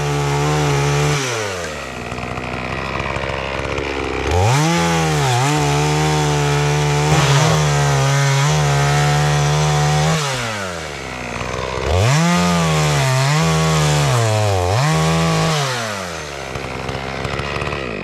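Chainsaw engine revved up to full throttle twice for cuts into wood, its pitch dipping briefly under load, and falling back to a low idle in between and near the end.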